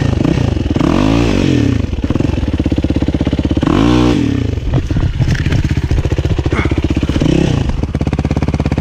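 Motorcycle engine running under throttle, its revs rising and falling in swells about a second in, near four seconds and again around seven seconds.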